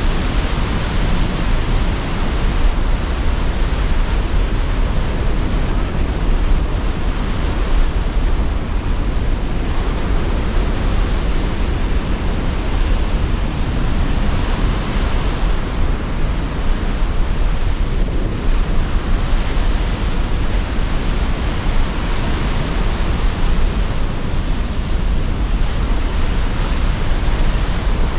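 Sea surf breaking under strong wind: a continuous rush of surf noise that swells every few seconds with the waves, over a steady low rumble of wind.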